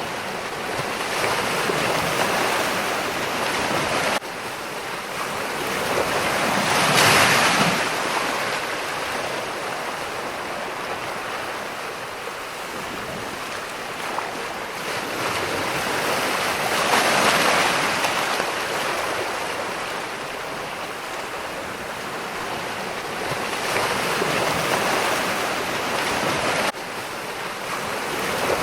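Ocean surf: waves breaking and washing in, the rush swelling and falling back every seven to ten seconds. The level drops abruptly twice, about four seconds in and near the end.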